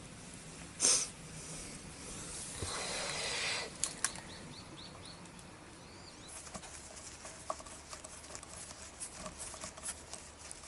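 Hands-on work at a motorcycle's front brake and fork: a short rush of noise, then a longer hiss lasting over a second, followed by scattered light clicks, taps and small squeaks.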